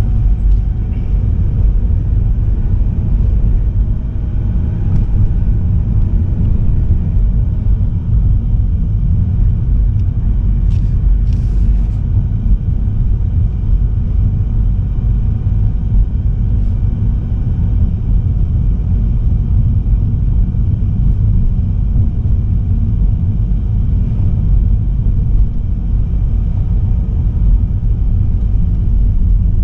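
A car driving, heard from inside: a loud, steady low rumble of road and engine noise. A couple of brief high clicks come about eleven seconds in.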